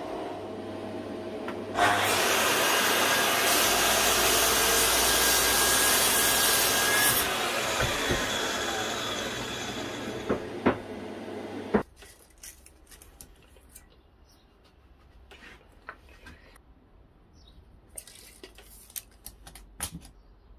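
A woodworking power tool cutting timber, loud for about five seconds, then fading with a falling whine as it winds down. It cuts off suddenly about twelve seconds in, after which there are only scattered light knocks of wood being handled.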